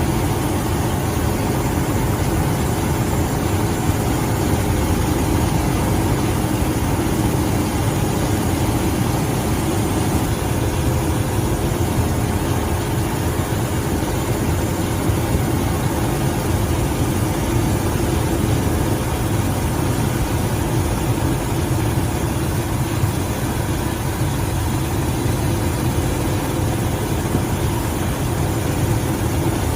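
Steady, unbroken drone of a rescue helicopter's engines and rotor.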